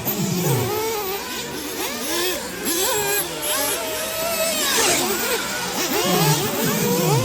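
Several 1/8-scale nitro off-road RC buggies' small glow engines revving up and dropping off in turn, their whining pitches rising and falling and overlapping.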